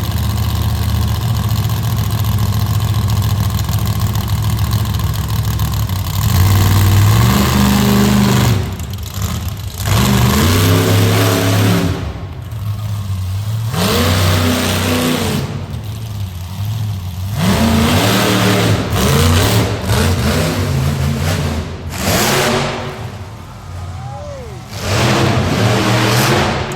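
Monster truck engine running steadily, then revved hard in a series of surges, the pitch climbing and falling with each one and dropping back between them.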